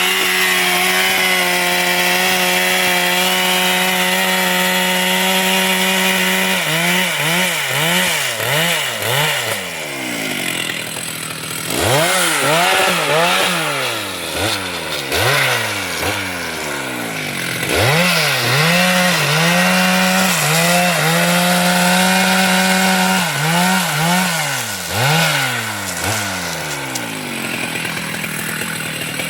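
Chainsaw engine running at high speed, steady for the first several seconds. Its pitch then repeatedly dips and recovers, about twice a second, with a steadier stretch in the middle.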